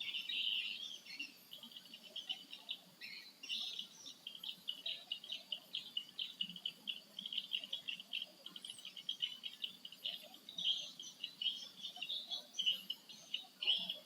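Small birds chirping and twittering rapidly and continuously, many short high notes overlapping.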